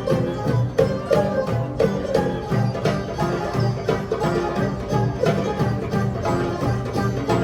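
Live instrumental music in a Persian style from an ensemble of Persian tar, erhu, guzheng, guitar and tonbak hand drum: quick plucked-string notes over a steady drum beat.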